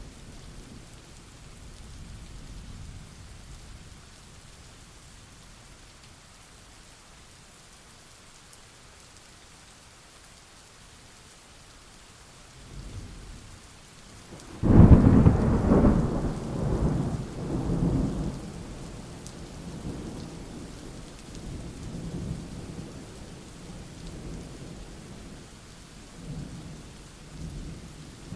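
Steady rain with thunder. A low rumble fades out over the first few seconds, then about halfway through a sudden loud thunderclap breaks and rolls on in several peaks for a few seconds before dying away into the rain.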